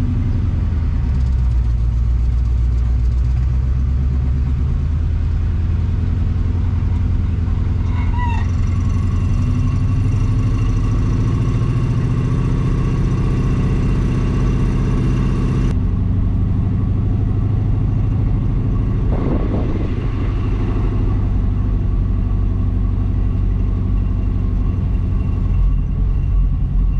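A 1980 Chevy K20's 350 small-block V8, fitted with glasspack mufflers, runs steadily under load while the truck is driven. The engine note shifts about four seconds in and changes again abruptly about halfway through.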